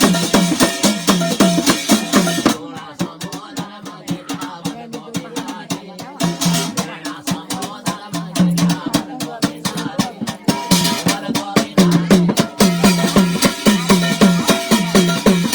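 Instrumental passage of a Garhwali jagar: fast, steady drum strokes with a rattle. The music drops quieter and thinner from about two seconds in and fills out again near the end.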